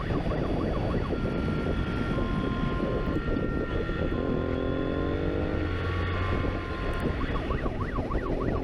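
Police siren on a chase motorcycle yelping in fast up-and-down sweeps, over steady wind and road noise. The sweeps give way to steady tones in the middle, where a motorcycle engine revs up, and resume near the end.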